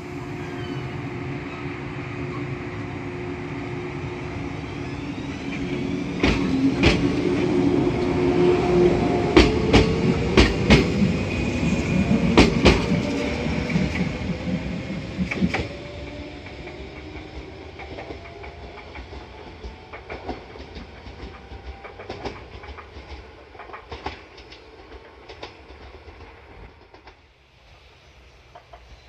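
A train running past on jointed track. Its running noise builds, then becomes loudest for about ten seconds with sharp wheel clicks over the rail joints and a tone that slowly rises in pitch. It then fades, with scattered clicks toward the end.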